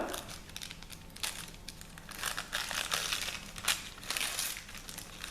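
Paper backing being pulled and torn away from fresh machine embroidery on a blouse: irregular papery rustling and tearing, in uneven bursts.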